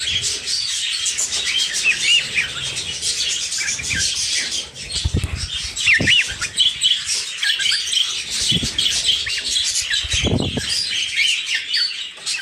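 Cockatiels chirping and whistling, a steady stream of short, bent chirps with no pauses. A few low thuds come in partway through.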